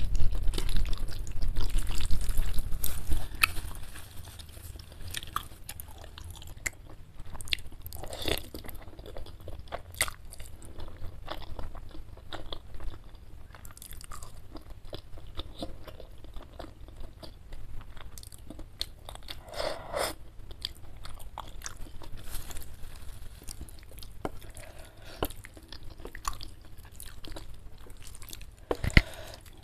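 Close-miked eating of spicy chicken noodles with meatballs and fried wonton crisps: wet chewing with crunchy bites, louder for the first few seconds and then a steady run of small crackles and clicks.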